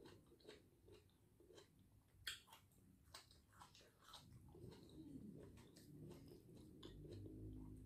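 Faint close-up chewing and small mouth clicks of a person eating grilled fish and rice by hand, with one sharper click about two seconds in. A low hum comes up in the second half.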